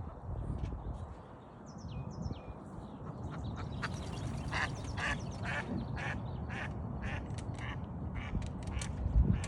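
Mallard ducks quacking in a long run of short quacks, about two or three a second, starting a few seconds in, over a steady low rumble. A small bird chirps briefly before the quacking, and a low thump comes just before the end.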